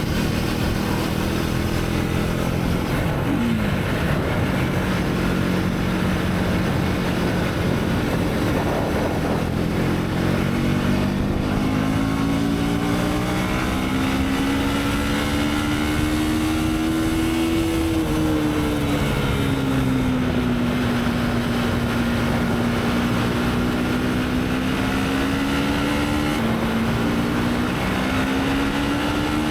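Motorcycle engine under way on the road. Its pitch climbs slowly, drops about eighteen seconds in, then climbs again, over a steady rush of wind and road noise.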